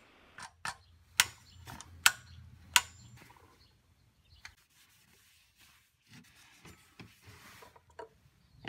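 Click-type torque wrench clicking three times, about a second apart, as the oil filter cap on a Toyota 2GR-FKS V6 reaches its set torque of 18 ft-lb. Softer knocks and rubbing of tools being handled follow.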